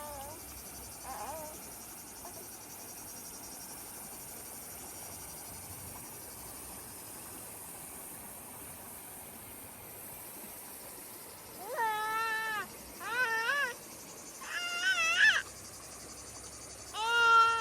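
Four drawn-out, wavering animal calls in the second half, each lasting under a second, over a steady faint high hiss.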